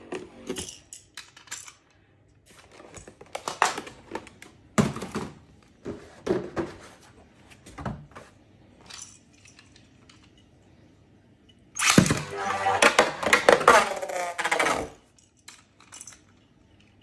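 Beyblade spinning tops clattering in a plastic battle stadium: scattered sharp knocks at first, then a dense run of rapid clashing and rattling that starts about twelve seconds in and lasts about three seconds.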